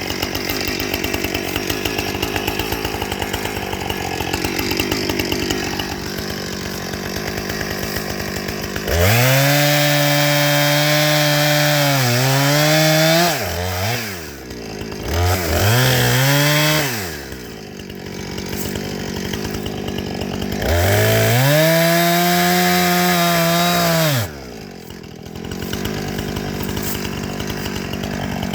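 Two-stroke chainsaw running low, then revved up to full speed three times: two long runs of a few seconds with a shorter one between, the pitch sagging now and then as it bites into wood. The last run cuts off suddenly back to idle.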